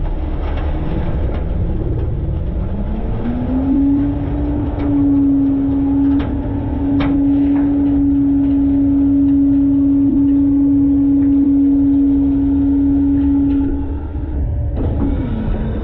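Front-load garbage truck's engine over a deep rumble: it revs up about three seconds in, holds at one steady high speed for about ten seconds, then drops back near the end. A few sharp knocks and clanks come in the middle.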